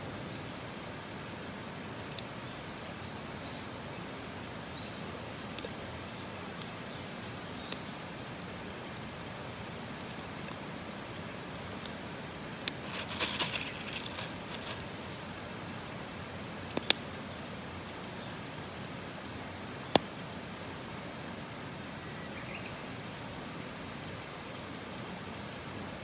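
Wood campfire burning with a steady hiss, sharp single pops every few seconds and a brief run of crackling about 13 seconds in. A faint bird chirp is heard once or twice.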